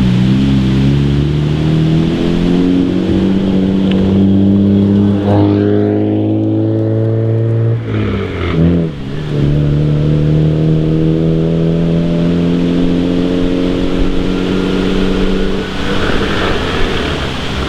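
Toyota JZX90 Mark II's 1JZ-GTE twin-turbo straight-six accelerating hard, its exhaust note rising in pitch. About eight seconds in it dips briefly through a gear change, then pulls again in the next gear. Near the end the engine tone gives way to a rushing noise.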